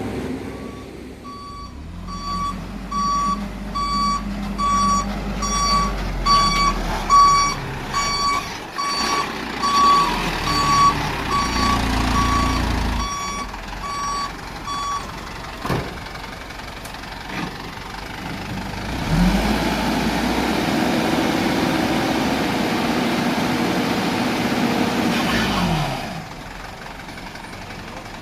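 Dump truck reversing, its reverse alarm beeping about twice a second over the diesel engine's running, until about halfway through. Later the engine speeds up and holds for several seconds, then drops back near the end.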